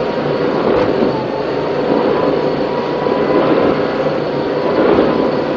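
Offshore racing powerboat running at speed in rough sea, heard onboard: a steady, loud mix of engine noise with wind and water rushing past the hull.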